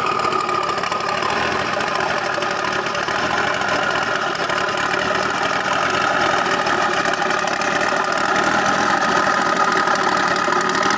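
A car engine running steadily at idle, with a fast, rough pulse.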